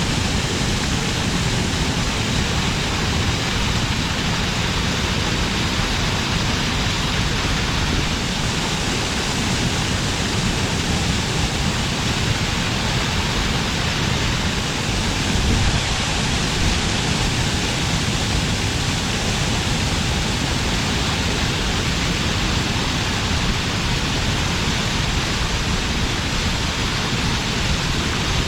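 Stream water spilling over a check dam, a steady rush of falling water.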